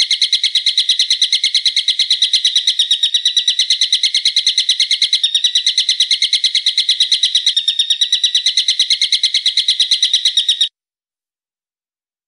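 A bird's sharp, high call given as a fast, even string of notes, about eight a second, running for some ten seconds and cutting off abruptly near the end.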